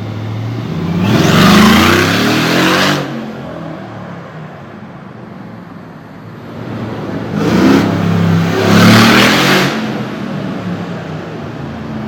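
Mercedes-AMG G-Wagon engine revving and accelerating hard twice, each time with a loud exhaust roar: once about a second in and again around seven to ten seconds in. A steadier engine note runs in between.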